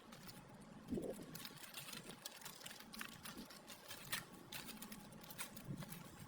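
Irregular light clicks and taps, with a louder soft knock about a second in.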